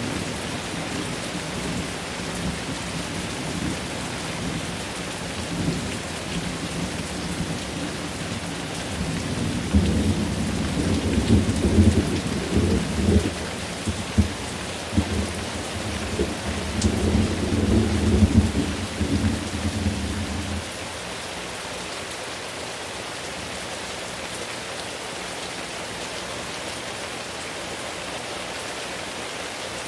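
Steady rain with a long rumble of thunder that swells about ten seconds in, peaks in uneven crackling surges, then cuts off abruptly about two-thirds of the way through, leaving only the rain.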